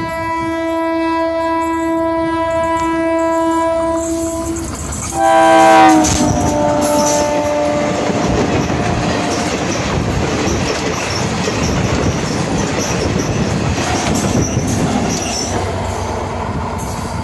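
Train horn blowing one long steady blast, then a second, louder blast about five seconds in that drops in pitch as the train goes by. Then comes the rumble and clickety-clack of passenger coaches running past close on the rails.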